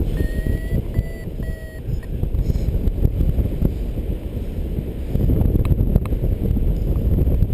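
Strong wind buffeting the microphone in flight, with a paragliding variometer giving three short beeps of steady pitch in the first two seconds, the tone a vario sounds in rising air.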